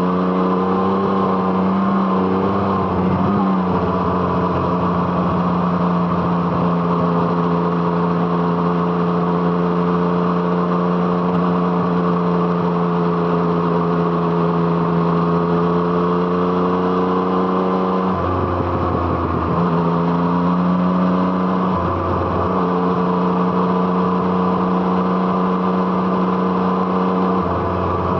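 Yamaha MT-09's three-cylinder engine with an Arrow Thunder exhaust, running on the move under steady throttle, its note slowly rising. It breaks up briefly four times as the throttle is eased and picked up again.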